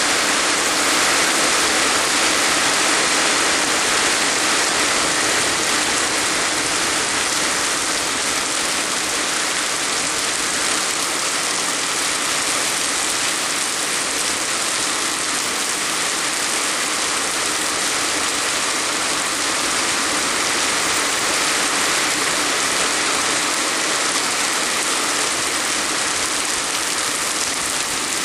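Heavy rain pouring steadily: a dense, even hiss with no breaks, slightly louder in the first few seconds.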